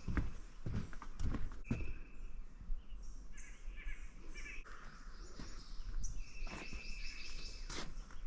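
Footsteps on an outdoor trail, with a bird calling: a held, steady whistle that comes twice, several seconds apart, and a quick run of short chirps in the middle.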